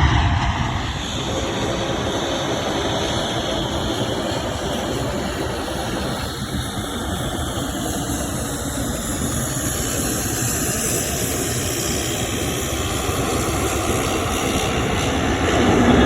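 Jet airliner engines running: a steady rushing noise that dips slightly after the first second and swells again near the end.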